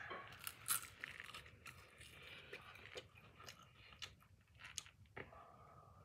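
Crisp, irregular crunching as a hard fried spiral potato chip on a stick is bitten and chewed.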